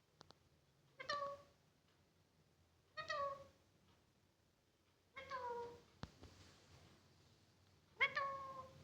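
Pahadi parrot (Alexandrine parakeet) giving four meow-like calls about two to three seconds apart, each short and falling in pitch: the parrot mimicking a cat's meow.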